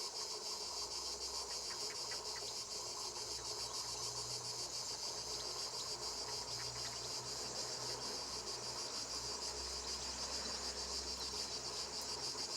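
A steady, high-pitched chorus of summer insects shrilling without a break.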